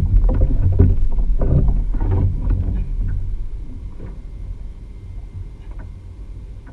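Low rumble with a run of knocks and rattles on a kayak over the first three seconds, fading after.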